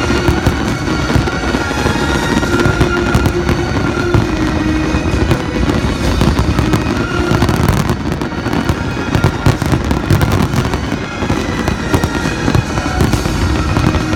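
Aerial fireworks going off continuously in a dense barrage of bangs and crackles, with music playing alongside.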